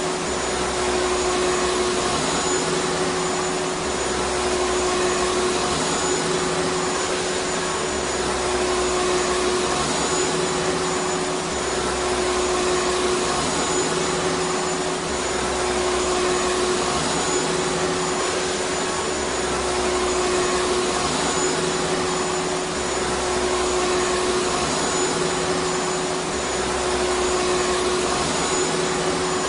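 Vacuum cleaner running steadily: an even rush of air over a steady hum, swelling slightly about every four seconds.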